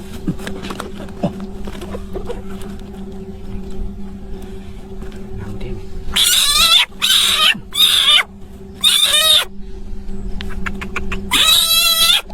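Frog giving five loud, warbling calls in the second half, four in quick succession and one more near the end, over a steady low hum.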